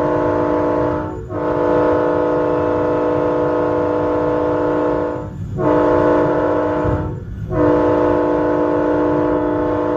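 Locomotive air horn sounding a multi-note chord in a run of blasts: one ends about a second in, then a long blast, a shorter one, and another long blast held to the end. This is the long-long-short-long pattern of a train horn signal.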